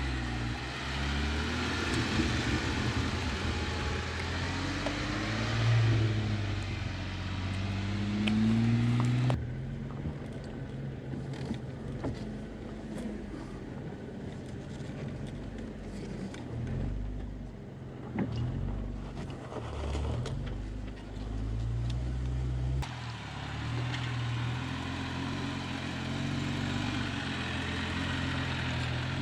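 Off-road vehicle's engine running at low speed on a dirt trail, its pitch rising and falling as the throttle comes on and off. It drops abruptly to a quieter low hum about nine seconds in, then comes back louder near the end.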